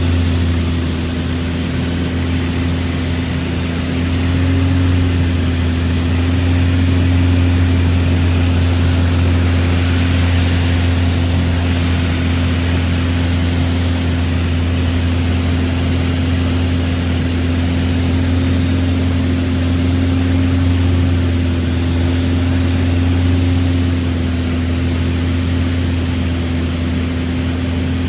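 Mooney single-engine piston airplane's engine and propeller droning steadily in cruise, a low, even hum with rushing airflow noise over it.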